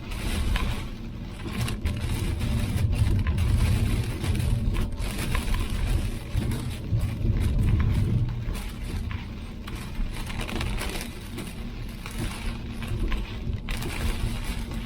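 A car driving, heard as a steady low road and engine rumble with scattered light knocks and clicks.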